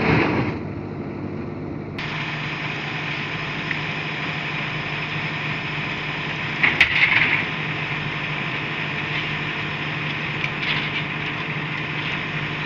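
A steady mechanical hum, with a brief loud clatter about seven seconds in.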